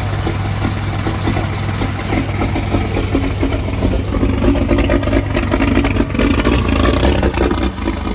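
12-valve Cummins 5.9 L inline-six diesel running shortly after a cold start with no block or grid heater. It runs steadily, then louder and busier from about halfway before dropping back near the end.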